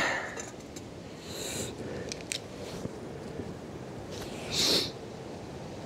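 Quiet handling of a camp cooking pot and kit: a few light clicks and two short rustles, over a low steady hiss.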